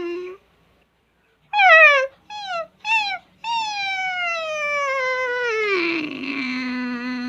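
Dog whimpering: three short high-pitched whines about two seconds in, then one long whine sliding steadily down in pitch that settles into a lower, rougher held tone near the end.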